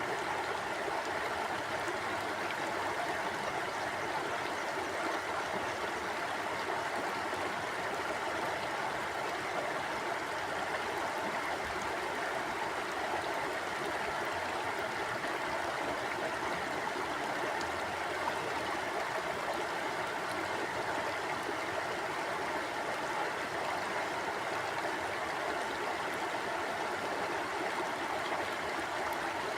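Mountain stream flowing steadily over rocks, an even rushing of water with no breaks or changes.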